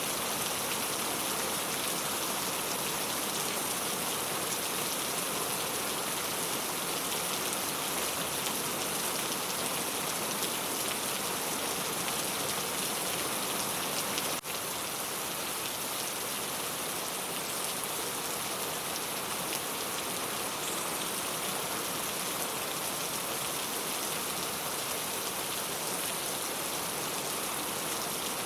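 Steady rain falling on a clay tile roof: an even patter with no let-up. A single faint click comes about halfway, after which the rain sounds slightly quieter.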